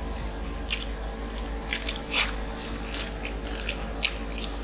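Close-up mouth sounds of eating fried chicken: irregular crunches, smacks and wet clicks as a piece is bitten and chewed, the loudest about two seconds in, over a steady low hum.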